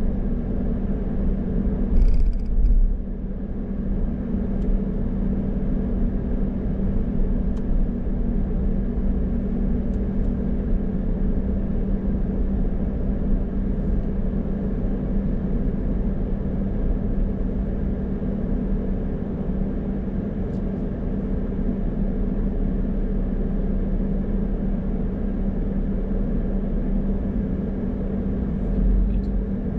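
A car driving, with a steady low drone of engine and road noise throughout and a brief louder burst of noise about two seconds in.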